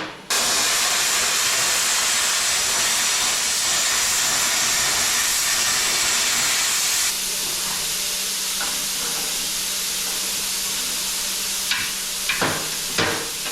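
Plasma cutter running steadily through sheet steel, a continuous hiss that drops slightly in level partway through, followed by a few sharp clicks near the end.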